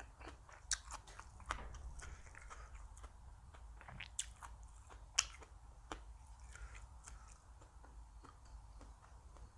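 Close-miked chewing and crunching of food, with sharp crisp clicks now and then, the loudest about five seconds in, over a low steady hum.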